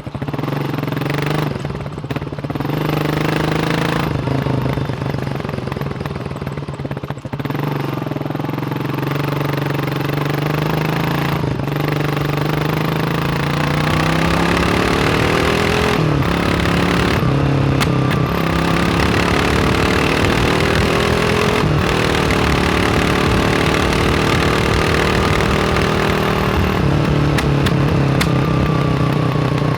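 Kawasaki KLR 600 single-cylinder four-stroke engine running, its note steady at first, then climbing in revs about halfway through and shifting up and down a few times before easing off near the end.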